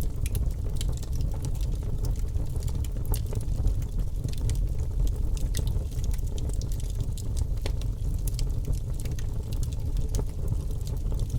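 Wood fire burning in a fireplace: a steady low rumble with many sharp crackles and pops at irregular moments.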